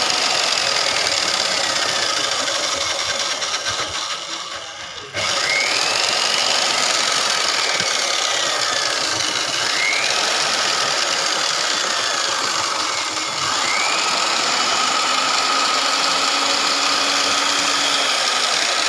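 Foam shredding machine running, its cutting teeth chopping foam into stuffing: a loud, steady mechanical noise with a whine that rises sharply and falls away slowly several times. The noise sags briefly about four seconds in, then comes back full.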